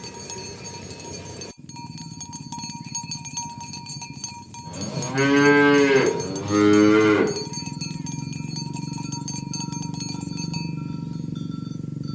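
A cow mooing twice in quick succession, two loud drawn-out calls about halfway through.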